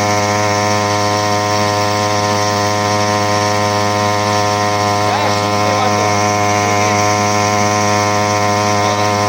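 Small Chinese 3 hp outboard motor running steadily under way, a constant drone that holds one even pitch throughout.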